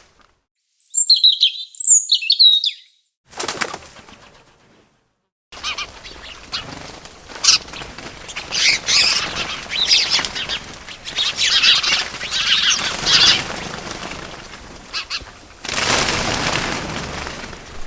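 Birds chirping and wings flapping, pieced together with abrupt silent gaps: two short, clear chirps about a second in, then after a pause a noisy stretch of chirping and fluttering, with a loud burst of flapping near the end.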